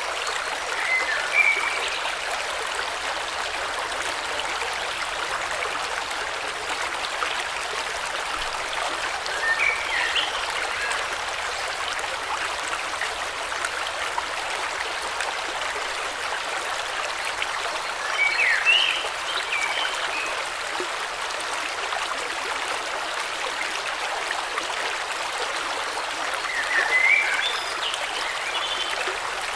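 River water flowing steadily, with a short burst of bird chirps about every eight or nine seconds, four in all.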